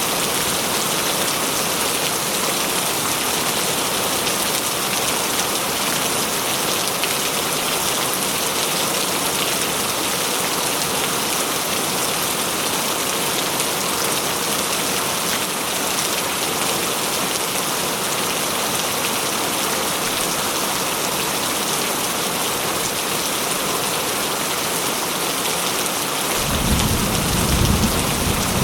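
Steady rain falling. Near the end a low rumble of thunder starts.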